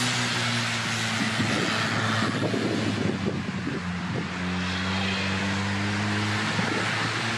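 An off-road 4x4's engine running, its pitch shifting to a higher, steady note about four seconds in, over a steady hiss.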